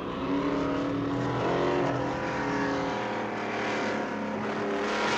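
Cars at speed in a highway chase: engines running and vehicles passing, with several long steady tones and gliding pitches layered over the noise of the traffic.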